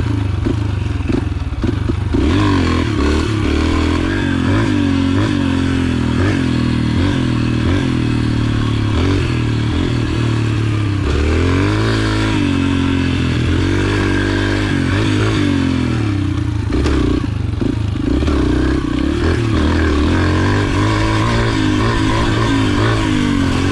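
Yamaha TT-R125 pit bike's single-cylinder four-stroke engine under way, its pitch rising and falling again and again with the throttle.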